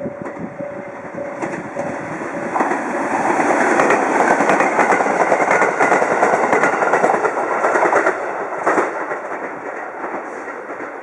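JR East 701 series electric train passing through a station without stopping. The wheels clatter over the rail joints, the noise builds to its loudest for about four seconds as the cars go by, then fades as the train moves away.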